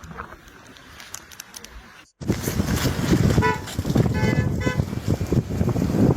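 A vehicle horn tooting twice in short blasts over loud, steady rushing noise, which starts abruptly about two seconds in after a quieter noisy stretch.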